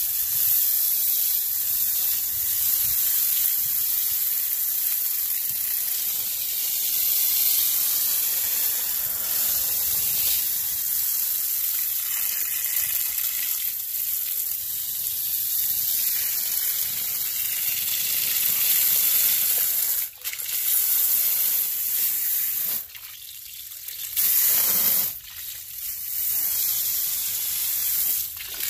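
Water spray from a hose nozzle hissing steadily against the fins of an air-conditioner condensing unit's coil, rinsing out caked-on dust. The spray breaks off briefly three times in the last third.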